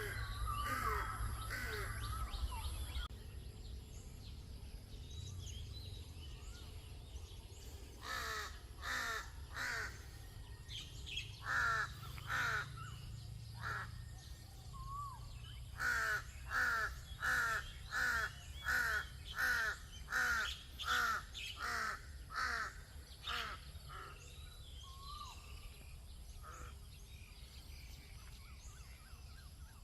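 A crow cawing repeatedly: harsh, downward-slurring caws in several runs, the longest a steady series of about a dozen caws, roughly one and a half a second.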